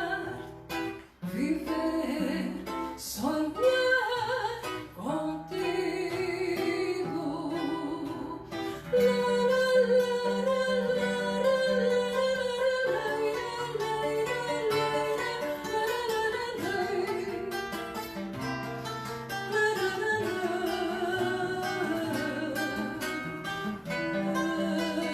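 A song performed live: a singing voice with a wavering vibrato, accompanied by plucked and strummed acoustic guitar.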